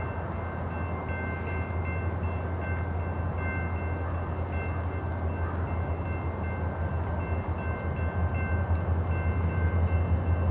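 Diesel freight train locomotives rumbling steadily, growing louder toward the end as they come closer. A bell rings throughout in quick repeated strokes.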